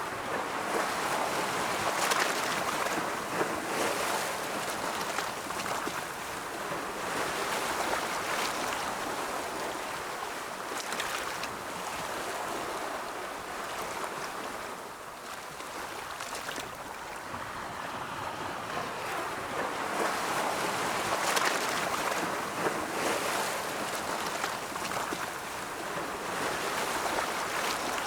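Ocean waves rolling in and washing on the shore: a steady rushing surf that swells and falls every several seconds, with a crackle of foam as each wave breaks.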